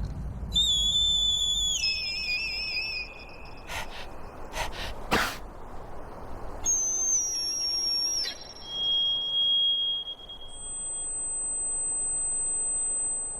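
Cartoon sound effects: high whistle-like tones that step down in pitch and warble, a few sharp clicks about four to five seconds in, then steady high beeping tones held for several seconds.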